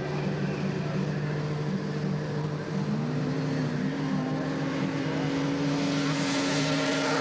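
Racing snowmobile two-stroke engines running, with a steady pitch that steps up about three seconds in and a louder, rushing noise building near the end.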